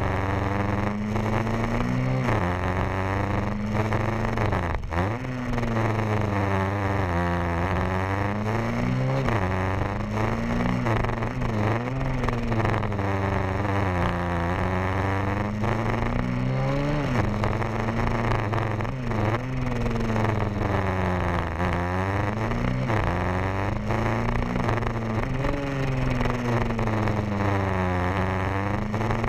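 150 cc pit bike engine being ridden hard. It revs up and drops back over and over, with the pitch climbing and then falling sharply every second or two as the rider accelerates and backs off.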